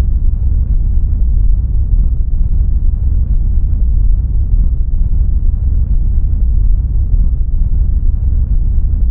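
A loud, steady, deep rumbling noise with no distinct tones, knocks or changes.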